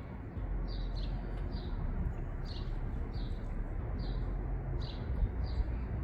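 A bird chirping over and over: short, high, downward chirps at about two a second, over a steady low background rumble.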